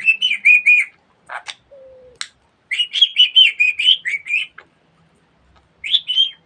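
Budgerigar chattering in three bursts of quick, high, warbling chirps, with a few short clicks in the gaps.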